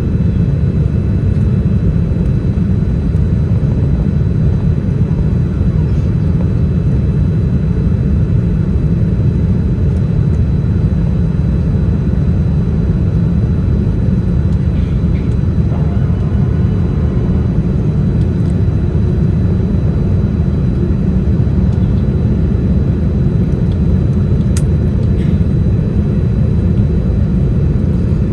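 Steady, even low rumble of a Boeing 787-10 jet airliner in flight, engines and airflow, holding one level throughout.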